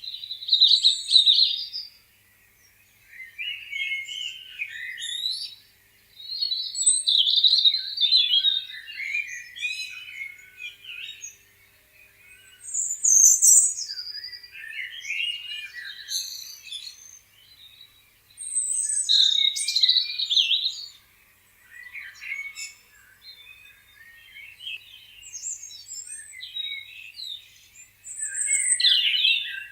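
Several songbirds singing and chirping, high-pitched phrases of one to two seconds overlapping and alternating with short gaps.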